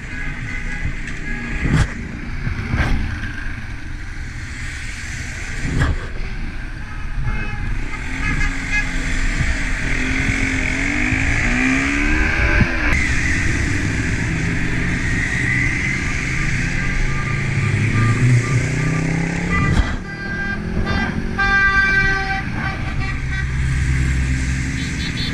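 Motorcycles riding in a convoy, engines rising and falling in pitch as they rev and shift, over wind noise on the helmet-mounted action-camera microphone. A run of horn toots sounds near the end.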